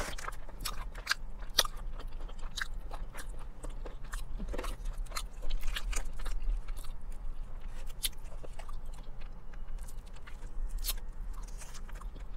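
Fried chicken being chewed close to the microphone, with many short, irregular crisp crunches.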